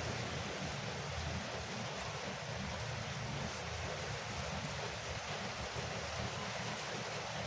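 Rain falling steadily on a porch roof: an even hiss of drops with a low rumble underneath.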